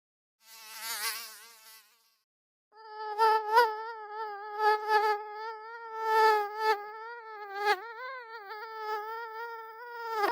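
Mosquito in flight: the high, thin whine of its wingbeats, holding a steady pitch with slight wavering and swelling louder several times as it passes close. It begins about three seconds in, after a brief, fainter, hissing buzz near the start.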